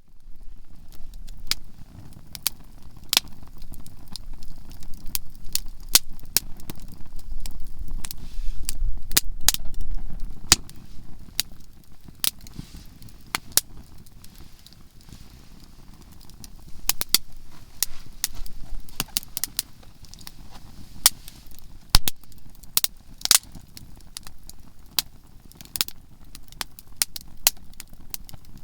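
Conifer firewood burning in a campfire, crackling with frequent irregular sharp pops, some of them loud, over a low rumble that swells about six to eleven seconds in.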